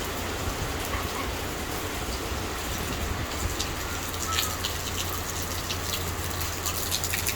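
Steady rain falling, with scattered sharper drips pattering on surfaces from about halfway in.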